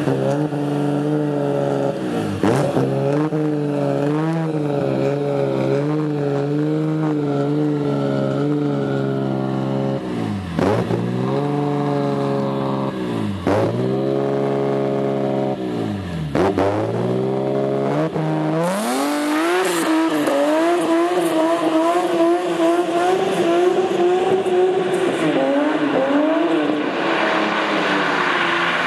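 BMW E36 M3 straight-six through a straight-through race exhaust, running steadily with several short throttle stabs. About two-thirds of the way in the revs climb and are held higher and wavering, louder and rougher toward the end.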